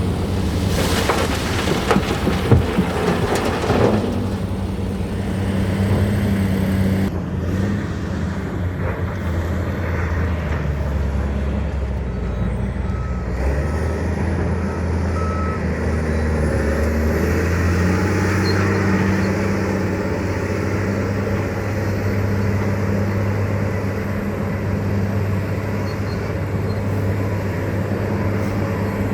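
Large diesel engine of a Hitachi 870 excavator running steadily, its pitch shifting as the load changes partway through. Metal clanks and knocks of bucket and rock come in the first few seconds, and four short beeps sound about halfway through.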